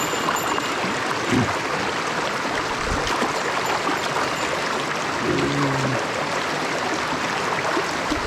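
Mountain stream water rushing and splashing steadily over rocks.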